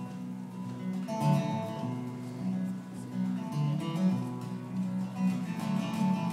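Live acoustic guitar music: an instrumental passage of picked and strummed notes.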